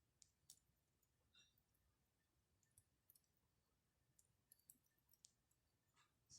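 Faint, irregular crackles and pops from a wood campfire, scattered sharp ticks a second or so apart over near silence.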